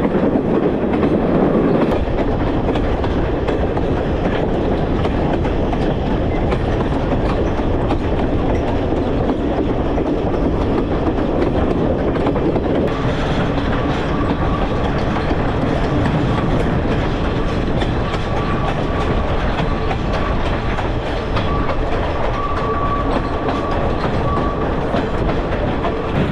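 Passenger train running on the rails, heard from aboard: a steady rumble with wheel clatter. About halfway through, a thin high wheel squeal comes and goes.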